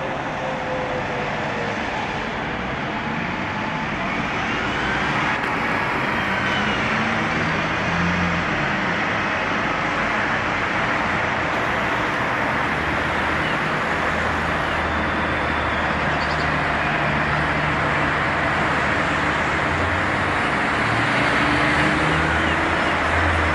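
Double-decker bus diesel engine running steadily, over a constant wash of road noise; the engine note shifts a little and the sound grows slightly louder near the end.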